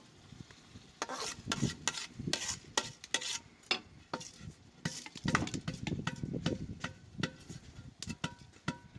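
A metal spoon stirring and scraping in a cooking pot, with irregular clinks against the metal.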